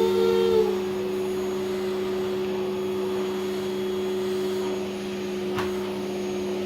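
Vacuum cleaner running with a steady hum being pushed over the floor. A brief high child's voice sounds at the very start, and there is a single click about five and a half seconds in.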